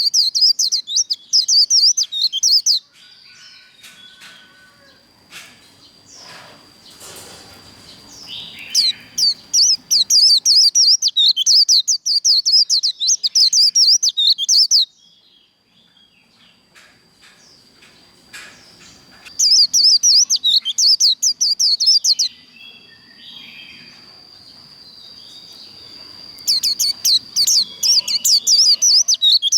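White-eye singing its rapid, high twittering 'líu' song, the fast-paced fighting song. It comes in four loud runs of a few seconds each, with short pauses between them in which a faint steady high tone lingers.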